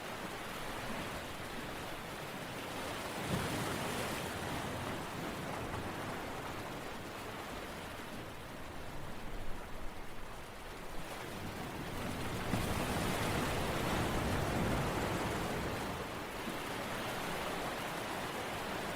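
Ocean waves rushing onto the shore and washing back, a steady noise that swells twice, with a short crackle of the wash near the middle.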